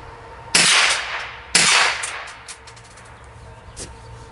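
Two rifle shots about a second apart, fired through a muzzle brake fitted with a sound mitigation can that throws the blast forward, away from the shooter. Each shot trails off in echo, not as loud as the bare muzzle brake but still rather noisy.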